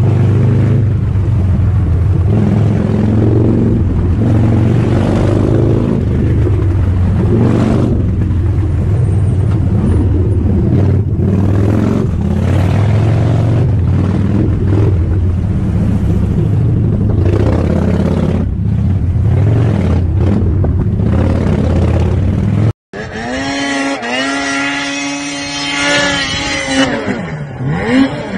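Loud, steady vehicle engine and road noise. After a sudden cut about 23 seconds in, an engine revs with its pitch rising and falling.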